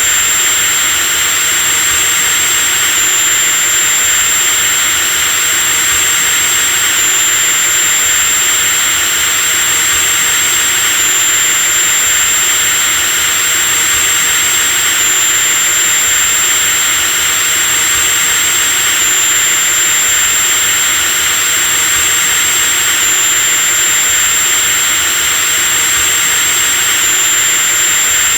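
Electric drill running steadily at full speed: a continuous high-pitched whine over a hiss, with a small hitch in pitch about every four seconds.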